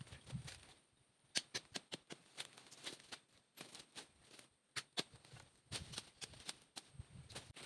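About twenty sharp, irregular clicks and light knocks spread over several seconds, with a few dull low thumps among them.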